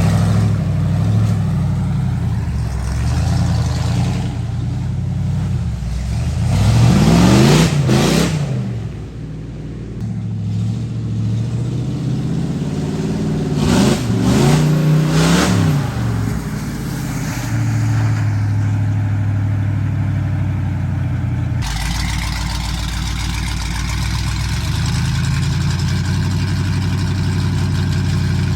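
Ford mud truck engines running loud, revved hard twice with the pitch climbing and falling back, then a steadier engine note after an abrupt change about two-thirds of the way through.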